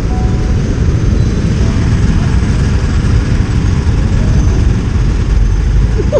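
Steady rumble of wind and road noise from a moving motorcycle.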